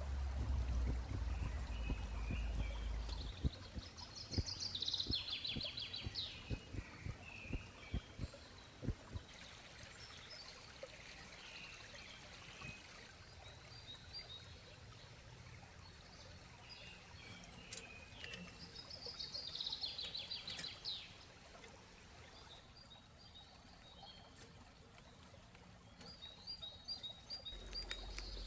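Wild birds singing: the same song phrase ending in a fast trill comes twice, with short chirps near the end. In the first several seconds there is a run of light knocks and clicks.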